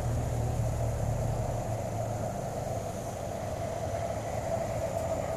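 2001 Subaru Legacy GT's flat-four engine running steadily as the car drives along a rough trail, heard from inside the cabin.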